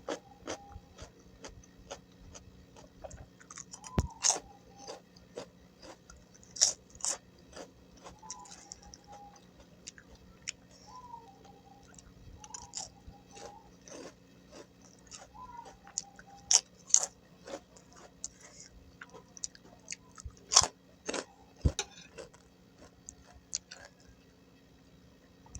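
Close-miked chewing and crunching of crisp food: pecel vegetables and kerupuk crackers, a rapid run of small crunch clicks with a few louder bites. A few short squeaky sounds come in between.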